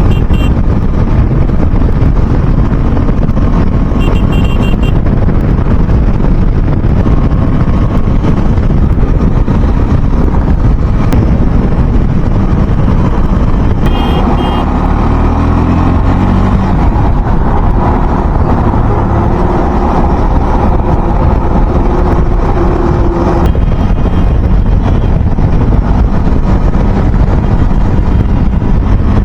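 Motorbike ride at road speed: steady, loud wind rush and road and engine noise, with other traffic around. About halfway through, a short run of rising pitched tones comes in, followed by a steady tone held for a few seconds.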